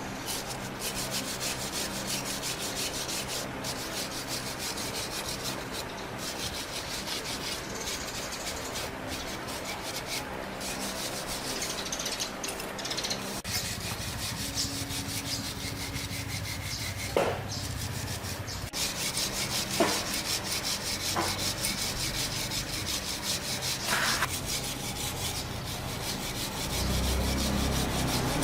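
Fast, continuous rubbing strokes against a hard surface, like sanding or scraping during bodywork. About halfway through the sound changes: it grows deeper, and a few sharp clicks cut through it.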